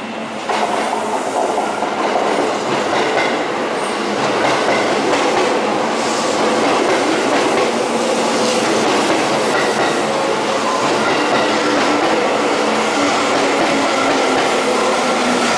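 Seibu 9000 series electric train running into the station along the platform. Its running noise grows louder about half a second in and then carries on as a steady rumble of wheels on rail.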